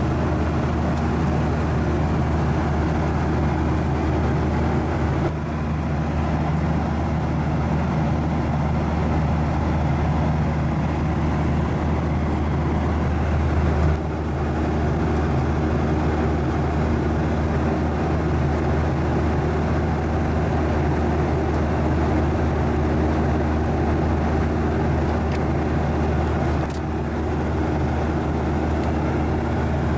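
Steady cabin noise inside a Boeing 737-900ER airliner in flight: a constant roar of the jet engines and airflow with a low steady hum, shifting slightly in level three times.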